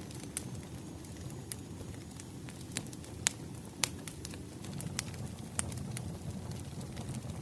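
Wood fire crackling: a low steady rumble of burning logs with irregular sharp pops and snaps, the loudest two a little over three seconds and nearly four seconds in.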